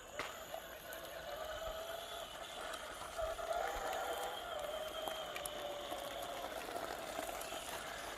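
Electric motor and gearbox of a 1/6-scale RC crawler whining steadily as it crawls, the pitch wavering slightly with load and swelling a few seconds in.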